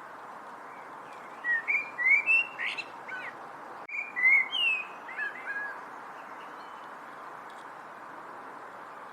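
A songbird chirping a quick run of short whistled notes that slide up and down in pitch, bunched between about a second and a half and six seconds in, over a steady background hiss.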